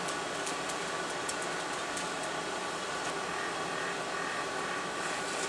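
Blacksmith's forge running with a steady rushing hum.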